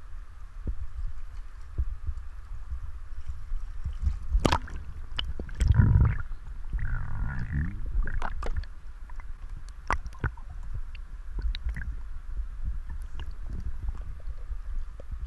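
Water sloshing and splashing around a head-mounted camera as a spearfisher wades in and goes under, with a steady low rumble and scattered clicks and knocks. About six seconds in there is a loud splash, followed by a second or two of bubbling.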